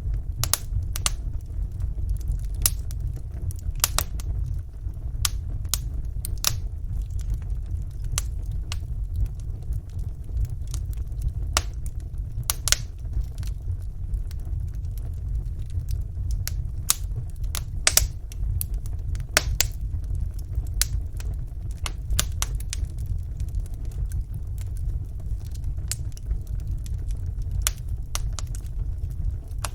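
Wood fire burning in a fireplace: a steady low rumble of flame with irregular small crackles, and now and then a louder pop.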